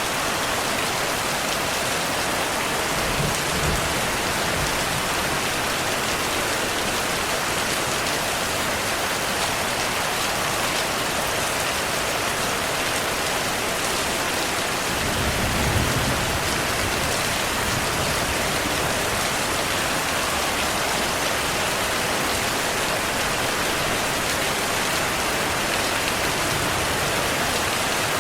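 Steady, even rain hiss, with two brief low rumbles of thunder: one about three seconds in and a slightly louder one about halfway through.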